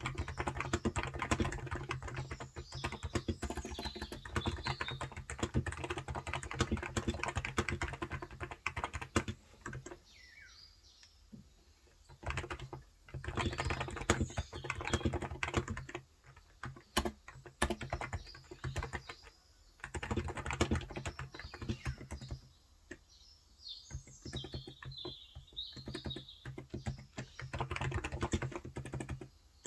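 Rapid typing on a Cox Endeavour electrostatic-capacitive (Topre-style) 35 g tenkeyless keyboard, in fast bursts broken by short pauses. Birds chirp in the background several times.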